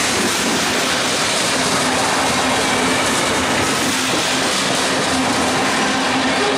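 Loaded covered hopper cars of a grain train rolling past, a loud, steady rumble and rattle of steel wheels on the rails.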